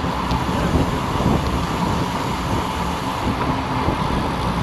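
Steady rush of wind over the microphone mixed with road noise while riding a bicycle at speed.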